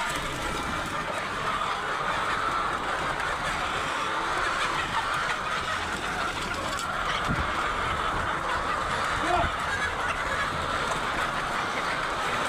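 A large flock of white layer hens calling all at once in a dense, steady din of clucking.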